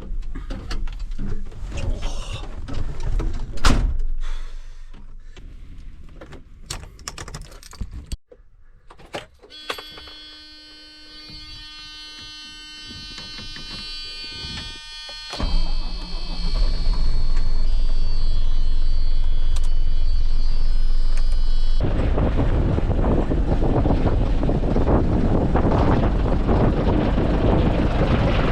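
Knocks and clunks from the lorry's cab, then a steady electronic warning buzzer for about six seconds, cut off as the 1989 Scania 93M's 280-horsepower diesel engine starts from cold about fifteen seconds in and runs on at idle.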